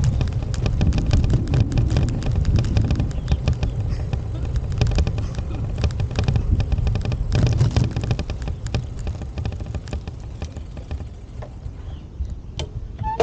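Outdoor ambience: a heavy low rumble with a rapid, irregular patter of small clicks and taps, easing off over the last few seconds.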